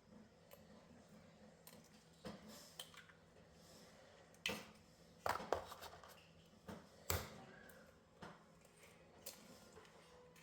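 Sparse kitchen clatter: a few short knocks and clinks of utensils and dishes, spaced a second or more apart, over a faint steady hum.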